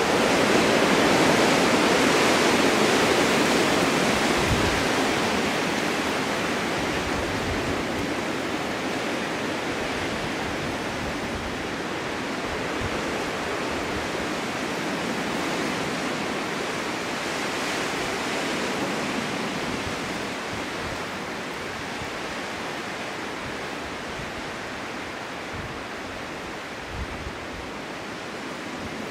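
Snowstorm wind blowing in a steady rushing hiss that swells in gusts, strongest in the first few seconds and then slowly easing, with another rise about two-thirds of the way through.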